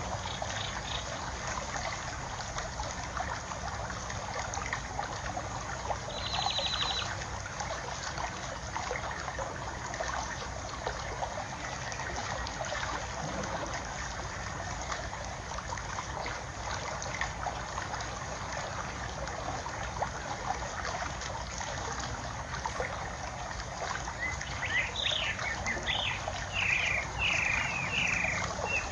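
Water trickling steadily, with a bird calling in a quick run of chirps near the end and a brief buzzy trill about six seconds in.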